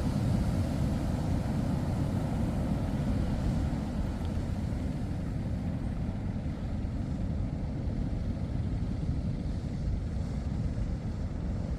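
Wind buffeting the microphone at the surf beach: a steady low rumble with no engine note in it, a little louder in the first four seconds.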